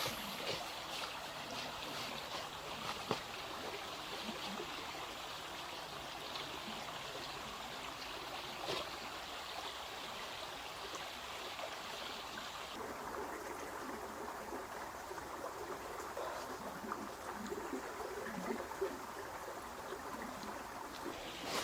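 Steady trickling, flowing water. A higher hiss in it stops suddenly about thirteen seconds in, leaving a softer trickle with a few small ticks.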